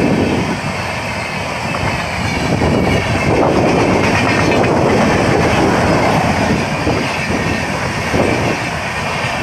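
Moving train running along the track, a steady loud rumble with an irregular clatter of wheels over the rails.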